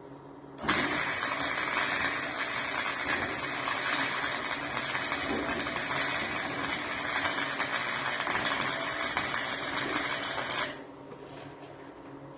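Welding arc running in one steady crackling hiss for about ten seconds, starting suddenly about a second in and cutting off suddenly near the end.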